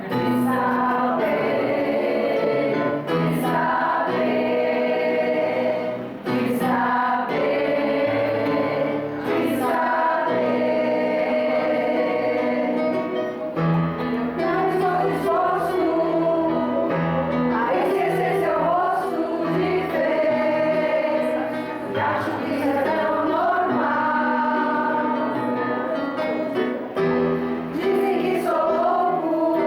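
A choir singing a song, its sung lines moving over steady held low notes.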